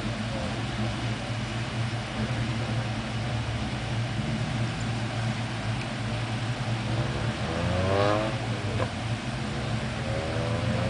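Two Ford Mustangs idling side by side at the start line with a steady low rumble; about seven seconds in one engine is revved, its pitch climbing to a peak and dropping back, and near the end it is revved again.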